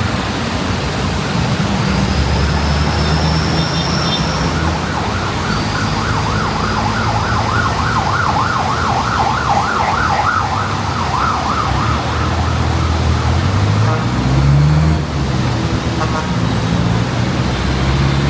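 An emergency vehicle's siren in a fast yelp, warbling up and down several times a second, rises in from about three seconds in and fades out around twelve seconds, over the steady hiss of rain and road traffic with engines rumbling past.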